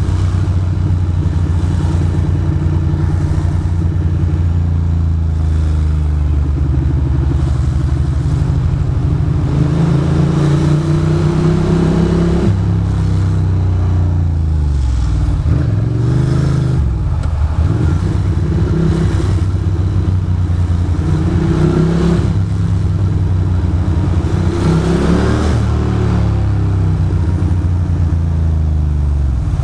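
Ducati Monster 620's air-cooled L-twin engine running on the move. It holds a fairly steady pitch at first, then from about a third of the way in its revs rise and drop again and again with throttle and gear changes.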